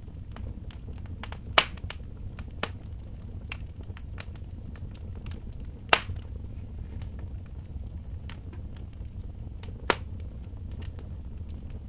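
Wood fire crackling in a fireplace: scattered small snaps with three louder pops, about a second and a half in, near the middle and near the end, over a low steady rumble.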